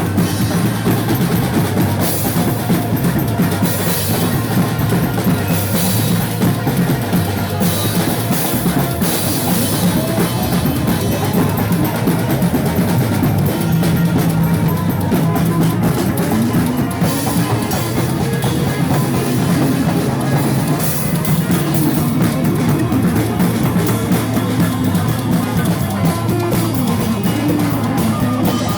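Band music driven by a drum kit, rock in style, playing without a break.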